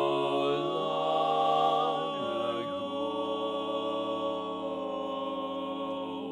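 A cappella vocal group singing in close harmony: long held chords without clear words, moving to a new chord about two to three seconds in.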